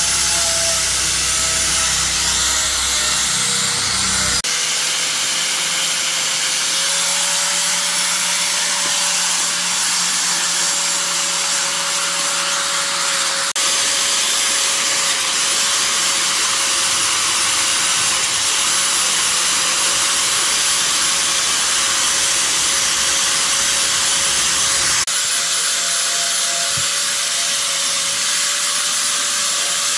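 An electric power tool running steadily and loudly, its motor holding one pitch under a dense grinding hiss. The sound shifts abruptly a few times, as if cut between takes of the same work.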